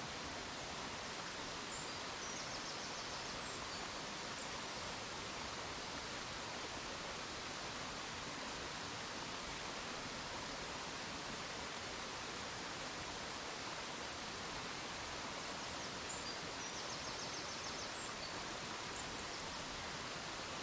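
Steady outdoor rushing noise, even and unbroken, like running water or wind, with faint high chirping twice.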